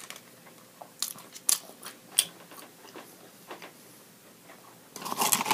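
Close-up chewing of a mouthful of steak-and-potato burrito, with a handful of short wet mouth clicks and smacks scattered through.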